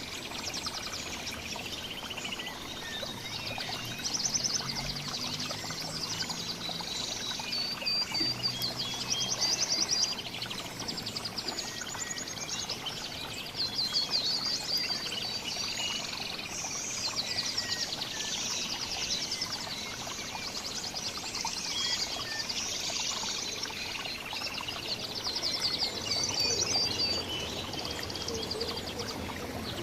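A mix of small songbirds chirping and trilling at once, with bouts of rapid high trills every few seconds, over a steady background hiss.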